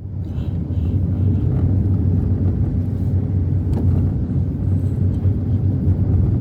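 Strong blizzard wind buffeting the microphone: a loud, even low rumble that starts and cuts off abruptly.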